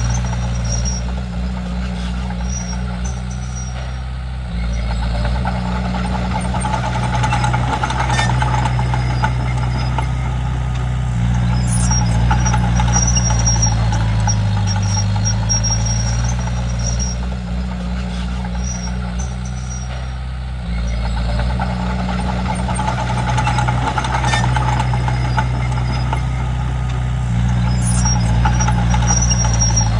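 Komatsu D31P bulldozer's diesel engine running as the dozer works, its note and loudness stepping up and down every several seconds as the load changes.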